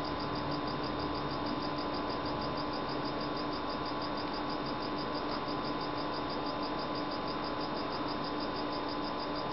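Feeder crickets chirping: a rapid, evenly spaced, high chirp that keeps going without a break, over a steady background hum.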